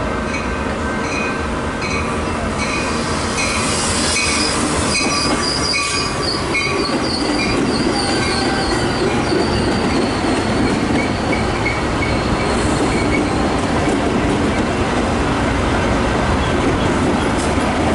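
A train rolling along the track with squealing wheels, its rumble building from about eight seconds in. A short ding repeats about every 0.7 s and fades out after about seven seconds.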